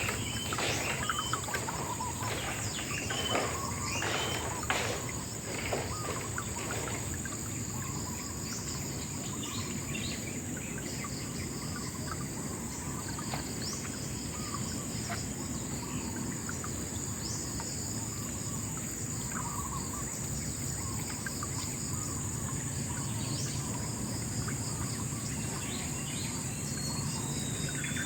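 Outdoor nature ambience: insects keep up a steady high-pitched trill while birds chirp here and there, with a burst of quick sharp calls in the first few seconds.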